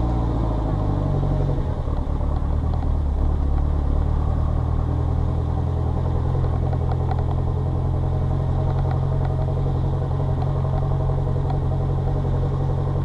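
Car engine running steadily at low revs as the car creeps along at walking pace.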